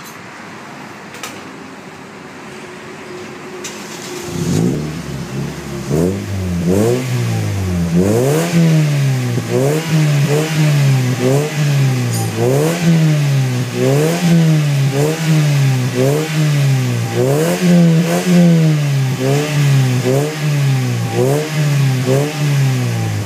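Toyota Vios engine heard through an HKS aftermarket muffler, quiet for the first few seconds, then revved in repeated quick blips about once a second from about four seconds in, each rising and falling in pitch.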